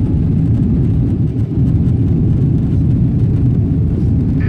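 Steady low rumble of a Boeing 777-200's engines and airframe, heard from inside the passenger cabin.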